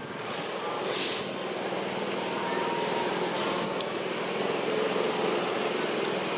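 Steady background hum and hiss, like a running machine or distant traffic, with brief hissy swells about one and three and a half seconds in.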